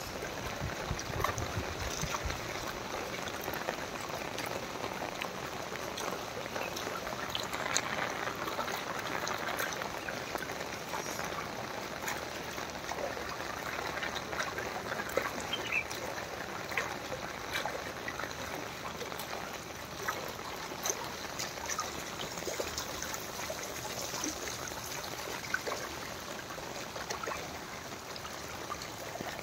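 Rain falling on floodwater that covers a street: a steady hiss of water with scattered small ticks of drops.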